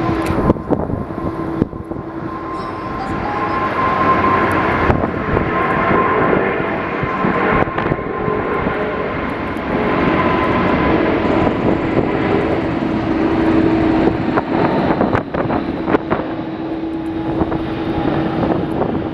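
Jet airliner engines: a broad roar with a steady whine that swells and eases as the aircraft goes by, with gusts of wind buffeting the microphone.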